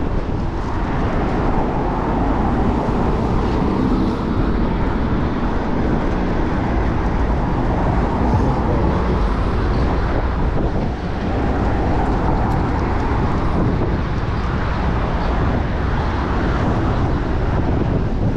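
Steady wind rush on the microphone of a moving bicycle, mixed with passing road traffic.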